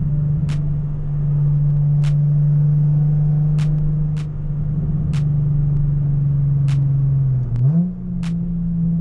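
A car engine running at steady revs with a low, even drone, which rises quickly to a higher steady pitch near the end. Sharp clicks recur about once a second.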